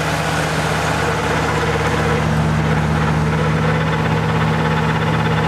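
Old tractor's engine running steadily as it drives a topper mowing the field, a low, even hum with a slightly higher tone joining about two seconds in.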